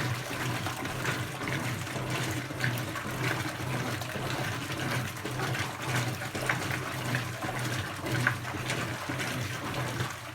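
Brastemp BWK17 17 kg washing machine with water rushing and gurgling through it over a steady low hum, cutting off abruptly right at the end as that stage of the cycle stops.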